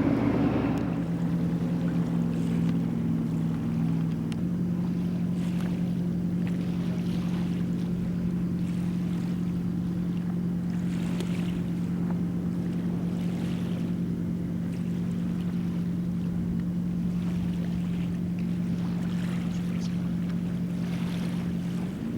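Ski boat engine running at a steady speed under way, over a steady rush of water and wind noise. The engine note steps up slightly a few seconds in and holds.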